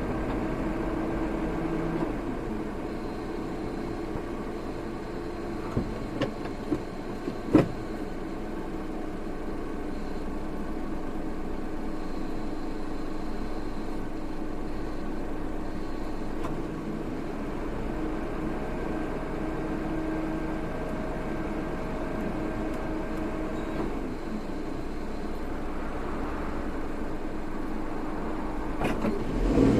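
A car running while driving, with a steady engine and road hum. A few sharp clicks come about six to eight seconds in, and the engine picks up near the end.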